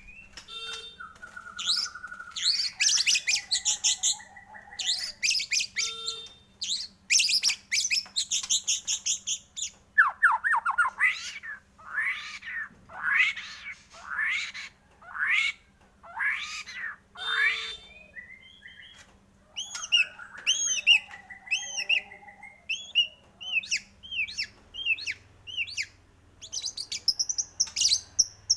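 White-rumped shama (murai batu) singing a varied song: rapid high trills, then a run of about eight falling whistled notes roughly one a second, then quick chattering phrases.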